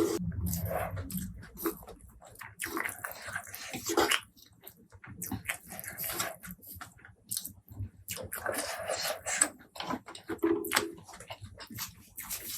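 Close-miked eating sounds: irregular chewing, smacking and wet mouth noises in short bursts with brief pauses.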